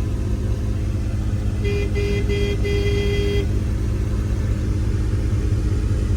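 A 1995 Dodge Ram 1500's 5.9 V8 running steadily under way, with the muffler cut off. A car horn honks about a second and a half in: three short toots, then a longer one.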